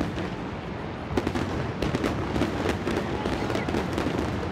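Aerial fireworks exploding in a rapid, irregular string of bangs, with many bursts overlapping.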